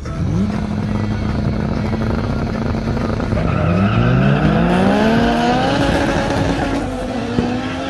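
Turbocharged race car engines held at steady revs, then rising in pitch from about three and a half seconds in as the cars accelerate away from the start line.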